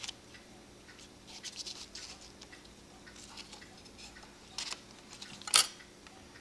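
Small handling sounds at a workbench: scattered light clicks and rustles of paper and small bellows parts being picked up and moved, with one sharper click about five and a half seconds in.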